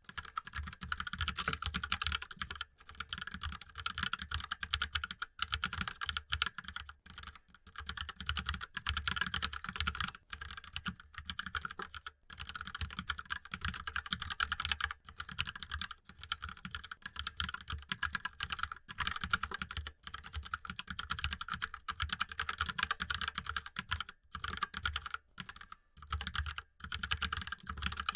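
Fast, continuous typing on a mechanical keyboard: a dense stream of key clicks with brief pauses every second or two.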